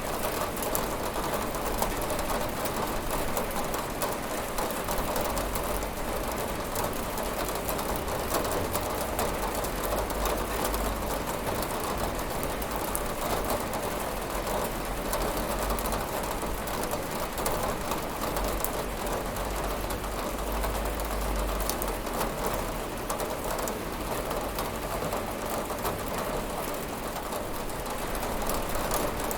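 Steady rain pattering on a window pane, a dense hiss of many small drop impacts over a low rumble.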